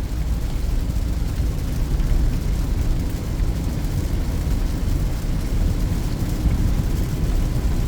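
Steady low drone of a Peugeot 2008 being driven, heard from inside the cabin: engine and road rumble with no distinct events.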